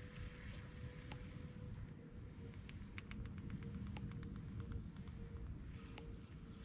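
Steady high-pitched insect drone over a low rumble, with a quick run of light clicks, about six a second, from about three to five seconds in.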